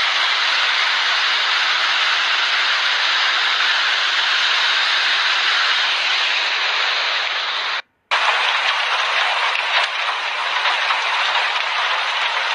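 Heavy rainstorm: a steady, loud rushing hiss of downpour. It cuts out for a moment about eight seconds in, then carries on with faint scattered patter.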